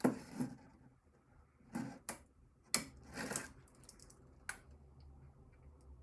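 A few scattered clicks and short scraping rustles of small plastic and metal computer parts being handled during disassembly, with a sharp click about halfway through and another near the end.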